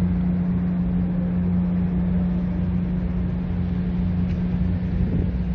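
Steady low hum of a running engine, with an even rush of road-traffic noise.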